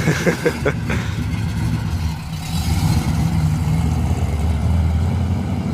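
Old Ford Falcon's engine with a deep, steady exhaust rumble as the car pulls away.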